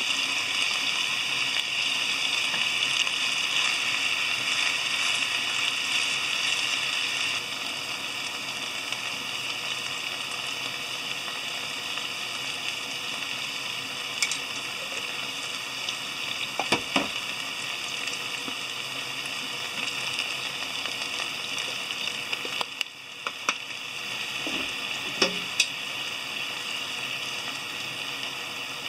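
Chicken thigh, green peppers and mushrooms sizzling steadily in a frying pan as they are stir-fried, a little quieter after about seven seconds. A few short knocks of the spatula against the pan come in the second half.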